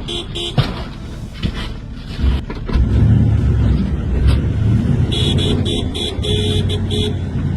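A vehicle horn sounding in short repeated toots, over the heavy rumble of a motor vehicle that swells about two seconds in.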